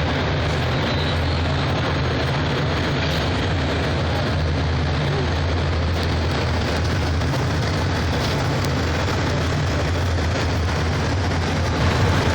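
Steady low engine-like drone over a constant hiss from radio-controlled model construction vehicles running.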